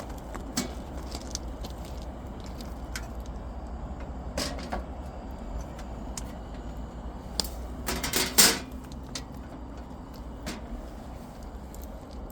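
Scattered clicks and knocks of objects being handled, with louder bursts of clattering about four seconds in and again around eight seconds, over a steady low rumble.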